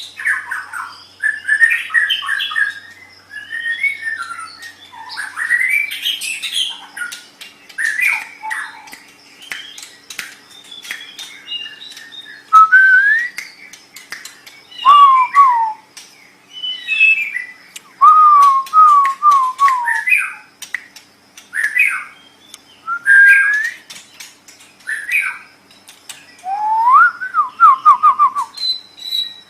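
White-rumped shama (murai batu) singing a varied song of short whistled phrases: rising and falling notes, quick descending note runs, harsh squawk-like notes and clicks, with brief pauses between phrases.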